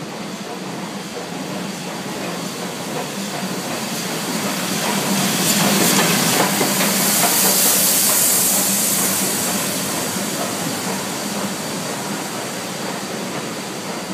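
Steam locomotive pulling into a station: a rising rumble of the train with a loud hiss of steam that peaks about halfway through and then fades, with a few clanks around the middle.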